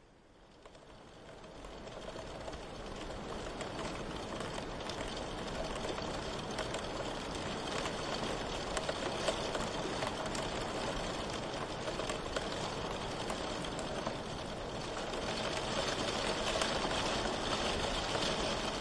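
Steady rain pattering, a dense hiss of many small drop ticks, fading in over the first couple of seconds and growing a little heavier near the end.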